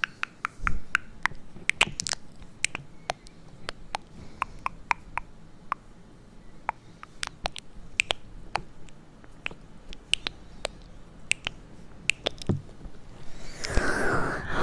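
Close-miked, irregular soft clicks and taps, a few each second, of the kind made as relaxing trigger sounds. A whisper comes in near the end.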